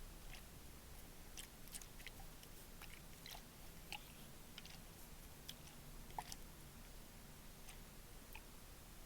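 Faint, irregular small clicks and crackles close to the microphone, a few each second, over a low steady background hum.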